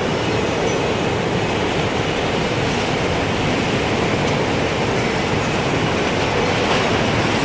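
Strong wind rushing steadily, with faint high wind chime tones ringing now and then above it.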